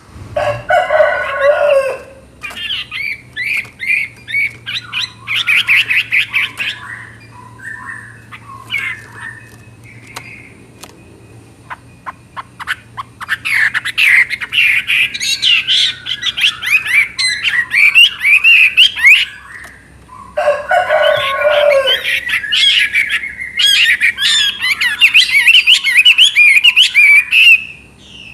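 Chinese hwamei singing loudly in long bursts of rapid, varied, pitch-sliding phrases with short pauses between them. Near the start and again about twenty seconds in, a phrase dips much lower in pitch.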